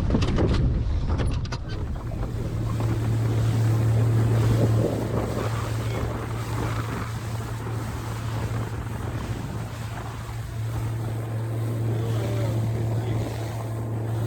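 A boat's motor running steadily, a constant low hum, with wind and water noise rushing past. A few sharp knocks in the first couple of seconds.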